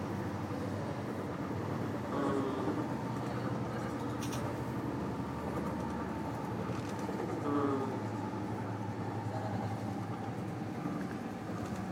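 SkyTrain car running along its guideway, a steady rumble with a constant low hum, heard from on board.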